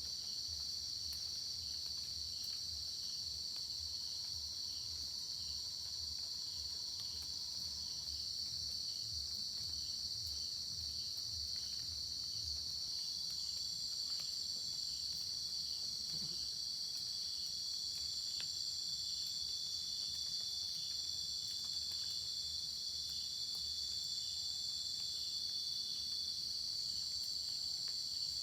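A steady, high-pitched chorus of crickets and other night insects trilling without a break, with thinner high tones joining in over the second half.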